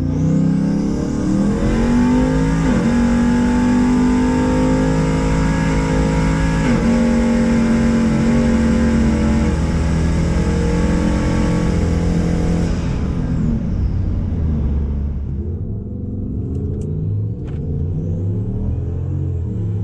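Vehicle engine pulling hard under acceleration. Its pitch holds and then breaks sharply about three, seven and nine and a half seconds in, as at gear changes. It eases off after about fourteen seconds, with a couple of sharp clicks near the end.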